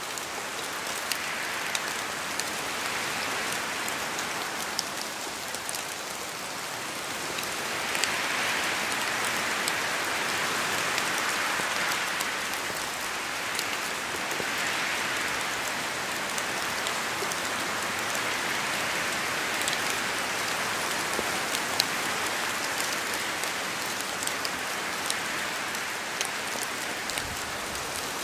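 Steady rain falling, an even hiss with many small drop ticks, swelling slightly for a few seconds about a third of the way through.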